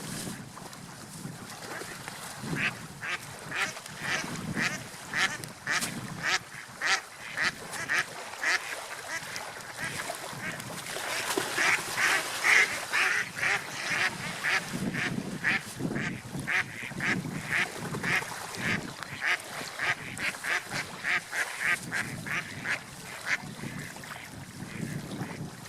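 Ducks quacking over and over, a long run of short calls at about two a second.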